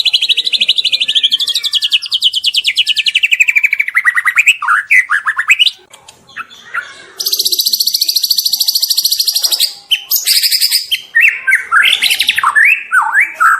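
White-rumped shama singing its rapid 'trotol' rattling trill: a long fast stutter of notes sliding down in pitch, a short break near the middle, then another high rapid trill followed by a run of short, varied whistled notes.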